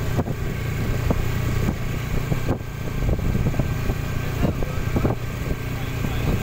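Motorized tricycle's motorcycle engine running steadily on the move, with irregular knocks and rattles from the sidecar as it rides.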